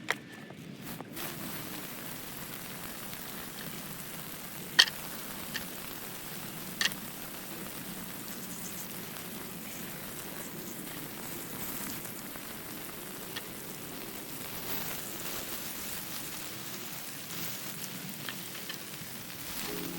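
Campfire burning, a steady crackling hiss with a few sharp pops, the loudest about five and seven seconds in.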